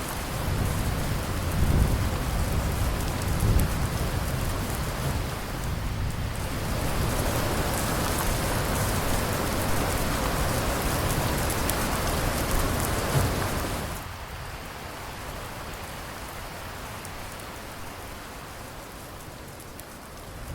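Steady heavy rain with low rolls of thunder rumbling through the first few seconds. The rain grows denser, then drops abruptly to a lighter, softer fall about two-thirds of the way in.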